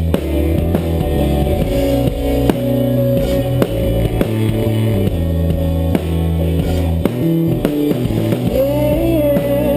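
A band playing live with guitars, bass guitar and drum kit, with steady held chords and regular drum hits. A wavering melodic line comes in near the end.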